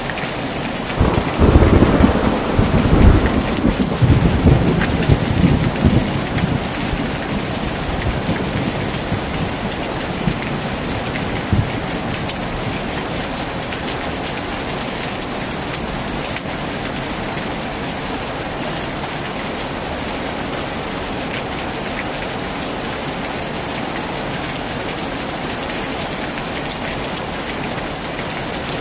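Heavy rain pouring steadily on a tin roof, with a thunderclap about a second in that rumbles for around five seconds before fading.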